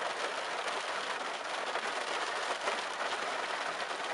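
Thunderstorm rain falling steadily, an even hiss of drops as the pea-size hail dies down.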